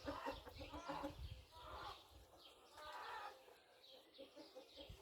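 Several domestic chickens clucking in short, overlapping calls, with quick high falling notes mixed in.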